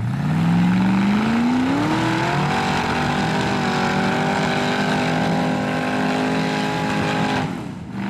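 Ford engine of an off-road rock buggy revving hard: the pitch climbs steeply for the first two seconds or so, then is held at high revs for several seconds, drops off briefly near the end and starts climbing again.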